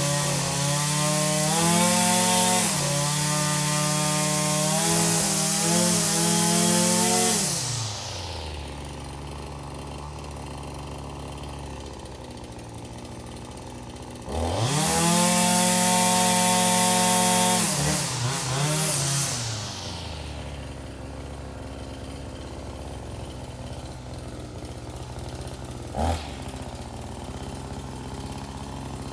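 A small two-stroke engine is revved high for about seven seconds, then drops to a steady idle. About halfway through it is revved up again for a few seconds and settles back to idle. There is one short knock a few seconds before the end.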